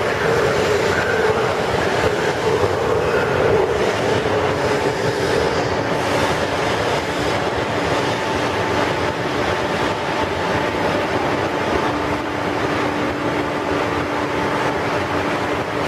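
Amtrak Acela Express trainset standing at the platform, its onboard equipment humming with a steady whine over a broad, even rumble of rail noise under the station roof. A somewhat stronger tone in the hum fades after the first few seconds.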